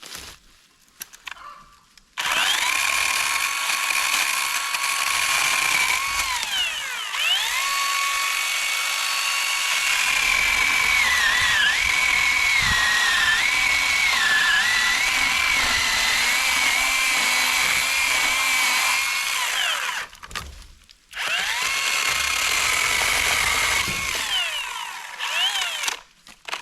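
Cordless electric chainsaw running on two 20-volt batteries, with a steady high motor whine while it cuts firewood; the pitch sags and wobbles under load partway through. The motor stops about twenty seconds in, then runs again for a few seconds. Its chain has worked loose after a stick jammed under it.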